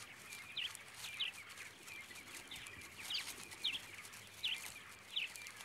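Bush ambience: a bird calling repeatedly with short, sharp, high notes, about one a second, over faint high ticking.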